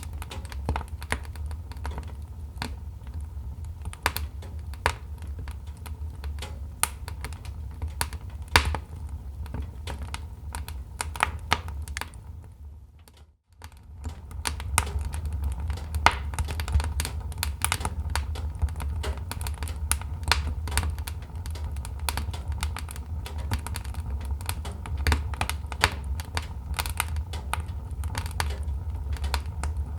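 Wood fire crackling: irregular sharp pops and snaps over a steady low rumble. The sound fades out and back in about thirteen seconds in.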